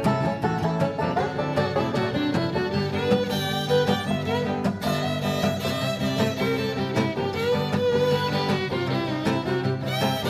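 Old-time country string band playing an instrumental break: a fiddle carries the melody with sliding notes over strummed guitar accompaniment.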